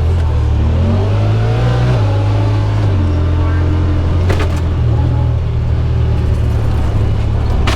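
Side-by-side UTV engine running at low trail speed, its revs rising and falling as it picks over fallen trees. A sharp knock about four seconds in and a louder one at the end, as the machine bumps over or brushes the debris.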